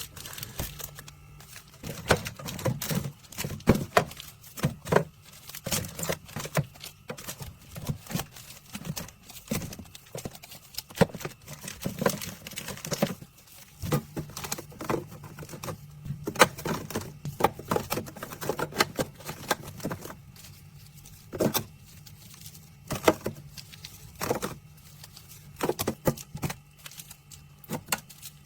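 Many irregular sharp clicks and taps, some in quick runs, over a faint steady low hum.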